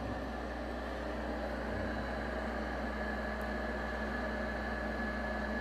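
Steady electrical hum and whirring noise with a faint high steady tone from a BSS EPC-780 power amplifier under a full-power soak test, delivering about 1 kilowatt into a 4-ohm load.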